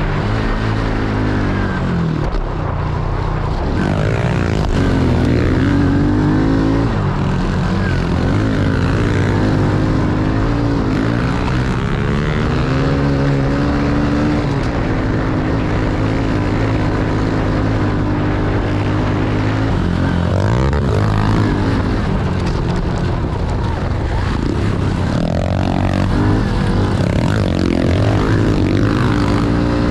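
Small single-cylinder four-stroke pit bike engine, recorded on the bike, revving up and down again and again as it accelerates, shifts and backs off around a motocross track.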